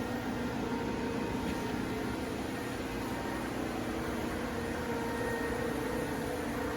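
Steady mechanical hum over an even hiss, unchanging throughout.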